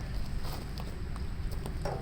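A few faint clicks and knocks of hand work on the tractor's hitch, over a steady low rumble.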